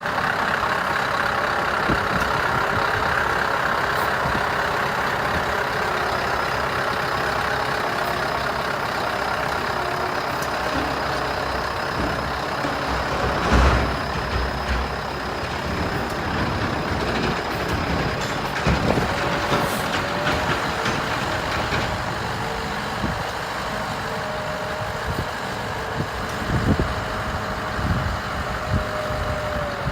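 Scania R500 truck's V8 diesel engine running steadily. There is a sharp knock about halfway through, and a steady whine joins in for the last third.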